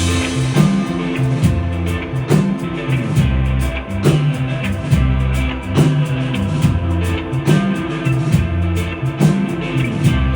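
A live rock band playing: drum kit keeping a steady beat under a heavy, moving bass line and electric guitar.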